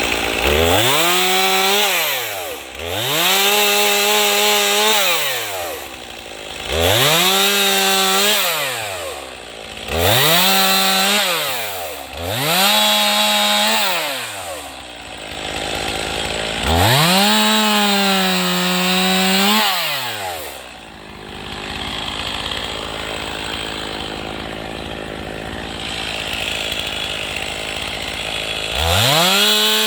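Chainsaw bucking firewood: the engine revs up to full throttle for each cut, holds for two or three seconds and drops back, about six times in a row. It then idles for several seconds before revving up again near the end.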